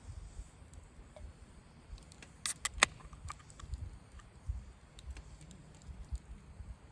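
A few sharp clicks close together about two and a half seconds in, over soft low bumps and handling noise.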